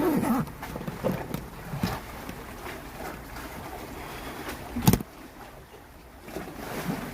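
Wind on the microphone over water noise, with a sharp knock about five seconds in.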